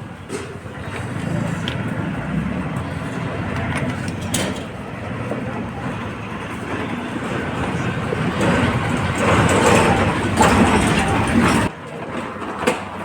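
Steady rumbling background noise with occasional sharp clicks and knocks as the angle grinder's parts are fitted back together. The noise swells near the end and then cuts off suddenly.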